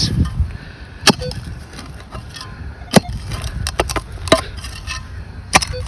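Handling and digging noise from recovering a dug find: four sharp clicks or knocks spread over several seconds, over a steady low rumble. A brief faint tone sounds about a second in.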